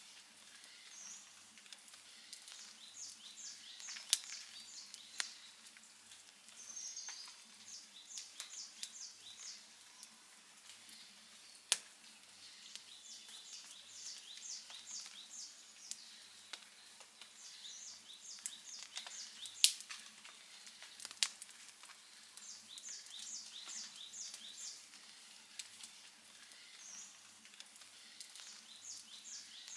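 Wood campfire crackling, with scattered sharp pops, two louder snaps standing out about twelve and twenty seconds in. Behind it, short quick series of high-pitched chirps repeat every few seconds.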